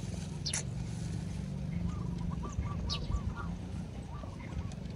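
Faint bird calls over a low steady hum: a few short high chirps, and about two seconds in a run of quick repeated calls at about four a second.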